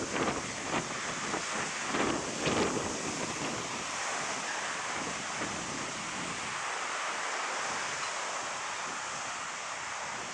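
Stormy sea surf rushing onto a sandy beach in strong wind. Wind gusts buffet the microphone during the first few seconds, then the steady rush of the waves carries on.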